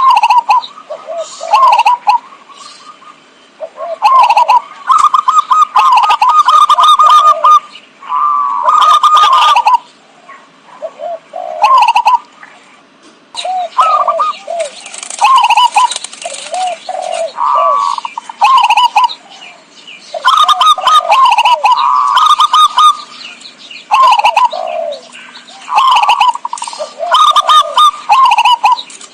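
Zebra doves (perkutut) cooing: phrases of quick, burbling coos follow one another with short pauses, some overlapping.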